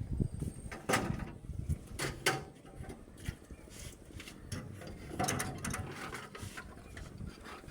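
A few sharp knocks and rattles at irregular moments, the clearest about a second in and around two seconds, over a low rumble.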